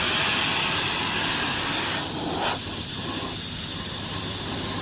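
Loud, steady hissing noise. About two seconds in there is a brief sweep, and after it the middle of the hiss drops away.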